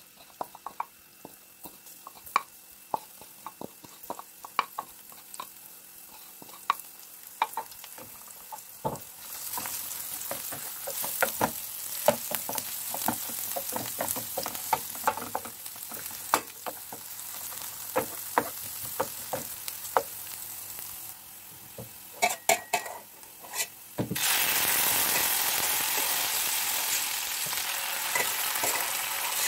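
Chopped garlic frying in olive oil in an aluminium pan, stirred with a wooden spoon. The spoon knocks and scrapes against the pan while the sizzle builds, and near the end the sizzle jumps to a loud, steady hiss.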